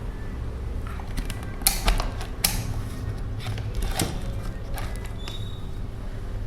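Scattered light clicks and rattles from handling multimeter probes and small electronic parts, over a steady low hum.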